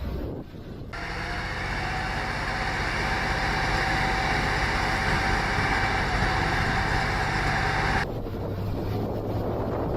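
Heavy vehicle engine running, changing abruptly about a second in to a loud steady hiss with a high whine, then cutting back near the end to a lower engine hum.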